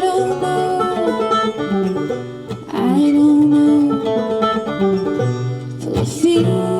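Acoustic bluegrass string band playing an instrumental passage on guitar, mandolin, fiddle and bass: plucked strings under held notes, with strong strummed accents about three seconds in and near the end.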